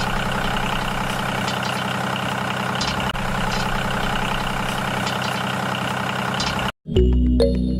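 A motor running steadily with a dense, even hum, without revving. It cuts off abruptly near the end, and music takes over.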